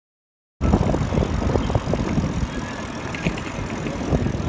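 Riding a bicycle: a steady low rumbling noise, typical of wind on the microphone, with scattered light clicks and rattles. It starts suddenly about half a second in, after a moment of dead silence.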